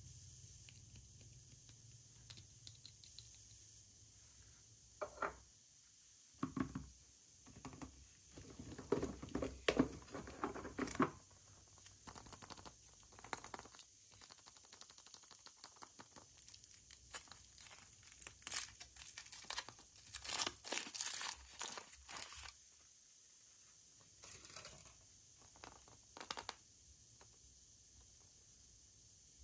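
Wrapping being torn and crumpled by hand in irregular crackly bursts, busiest in two spells near the middle, with quieter pauses between.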